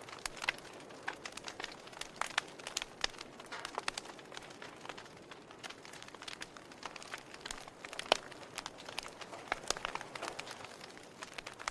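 Fire burning in a fireplace, crackling with irregular sharp pops over a soft steady hiss; the loudest pop comes about eight seconds in.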